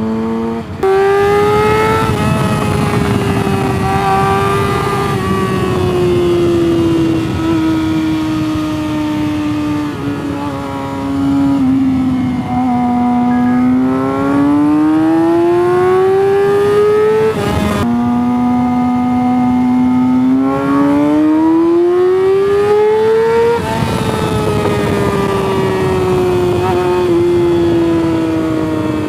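Sport motorcycle engine heard from on the bike, holding speed, then revving up twice with a sudden drop in pitch between the two climbs, as at a gear change, before easing off. A steady rush of wind noise sits under the engine.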